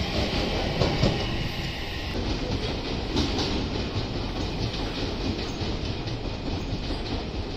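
Odakyu Line electric commuter trains running past, wheels clacking on the rails over a steady rumble. It is loudest in the first two seconds as the nearer train goes by, then settles into a steadier running noise from the train on the farther track.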